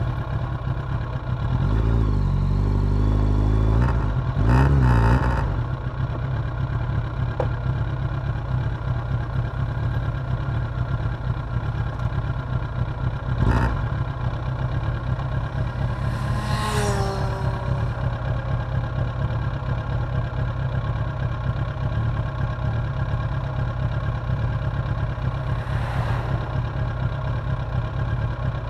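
Suzuki GSX750F inline-four motorcycle engine running at low revs with a clattering rattle, blipped up and down a couple of times in the first few seconds. A short click comes about halfway through, and a brief falling tone passes a few seconds later.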